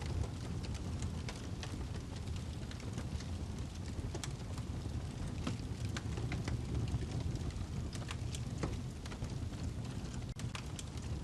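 Wood fire burning in a fireplace: a steady low rumble of flame with irregular sharp crackles and pops from the burning log.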